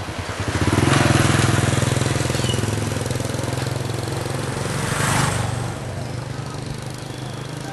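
A small motor vehicle engine running close by with a steady hum. It grows louder about a second in, swells with a rushing hiss around five seconds as it passes, then fades.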